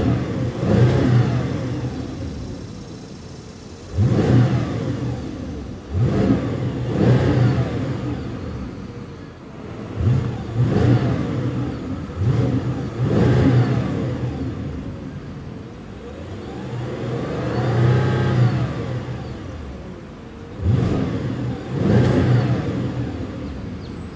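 2013 Audi S7's twin-turbo V8 being revved in park, heard from inside the cabin: about ten quick throttle blips, each rising sharply and falling back to idle, with one slower, longer rev and fall about two-thirds of the way through. In park the rev limiter holds it to around 4,000 rpm.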